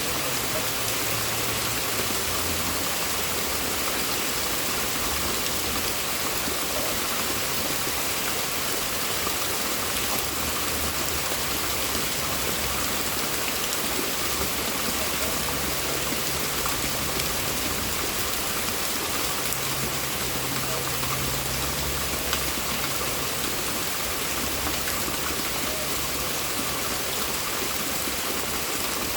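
Steady heavy rain falling, an even hiss that holds the same level throughout.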